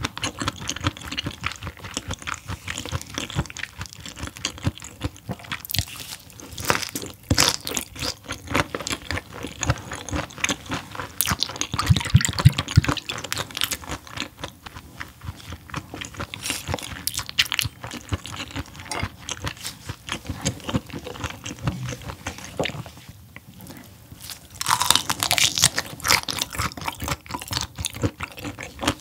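Close-miked chewing and crunching of raw mackerel and gizzard shad sashimi: a dense run of wet clicks and crunches, with a louder spell of crunching near the end.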